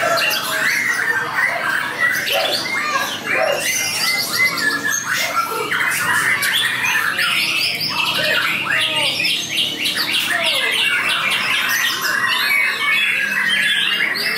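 White-rumped shama (murai batu) singing a fast, continuous, varied song of whistles, chirps and quick up-and-down pitch glides.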